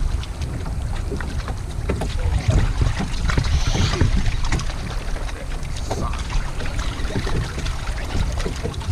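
Wind buffeting the microphone in a gusty low rumble, with scattered light knocks and rubbing from handling around a kayak.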